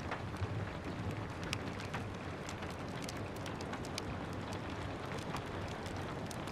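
Steady rain hiss with scattered sharp pops and crackles from a wood fire burning in a fireplace.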